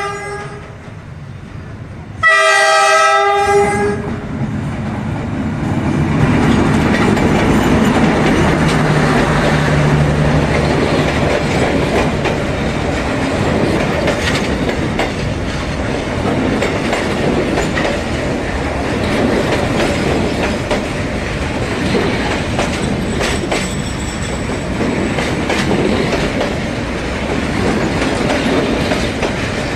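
A train horn gives a blast lasting under two seconds, about two seconds in. A train then passes close by with a steady rumble of wheels on the rails and a clickety-clack.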